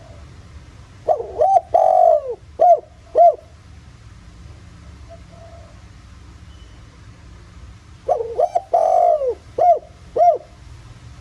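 Spotted dove singing two cooing phrases about seven seconds apart. Each is a few short rising-and-falling coos with one longer drawn-out note among them, in the deep 'giọng thổ' voice that is used as a lure to draw wild doves.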